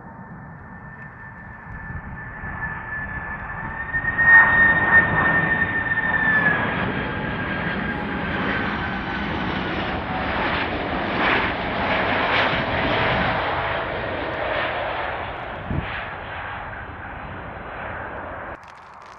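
Large jet airliner on landing approach passing close by, a high engine fan whine over jet noise that drops in pitch as it passes, loudest about four seconds in. The sound cuts off suddenly near the end.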